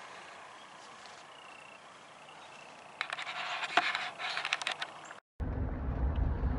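Faint evening outdoor ambience with short frog or insect chirps, then close rustling and scraping of gear being handled for about two seconds. After a sudden cut near the end, a vehicle's low engine and road rumble is heard from inside the cab.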